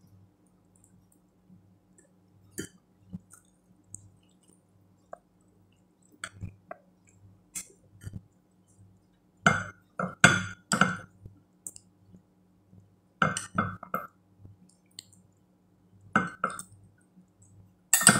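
Close-up chewing and mouth sounds of someone eating rice and vegetables by hand, with light clinks of fingers and food against a metal plate. The sounds come in short clusters, loudest around the middle and near the end, over a low steady hum.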